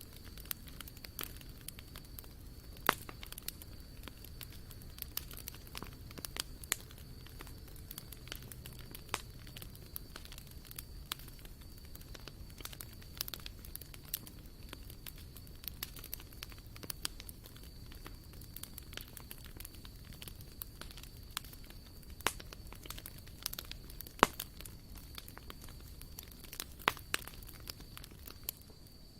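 Wood campfire crackling, with irregular sharp pops and snaps, a few of them louder, about 3, 24 and 27 seconds in.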